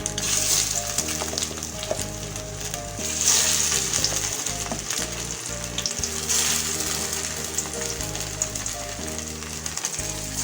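Rice cutlets shallow-frying in hot oil in a pan: a steady sizzle that swells a few times, over background music.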